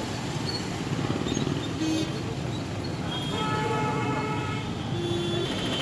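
Roadside din of truck engines running amid voices, with a few short pitched calls, the longest about three and a half seconds in.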